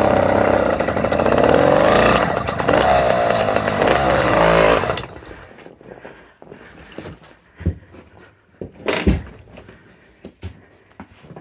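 A small petrol engine running, its pitch wavering up and down, then cutting off suddenly about five seconds in; after it stops come scattered knocks and one loud thump near nine seconds.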